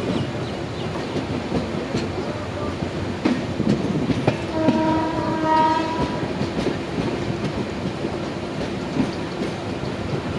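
Express passenger train running on the rails with a steady rumble and clatter of wheels. About halfway through, a train horn sounds once for about a second and a half.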